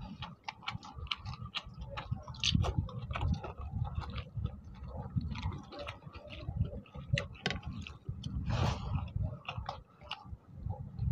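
Two people eating rice and chicken curry by hand, chewing and smacking their lips: a dense, irregular run of small wet clicks.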